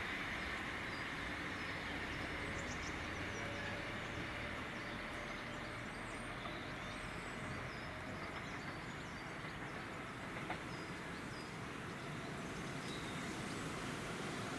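Southern Class 377 electric multiple unit running away into the distance, a steady rail rumble whose low hum dies away about five seconds in.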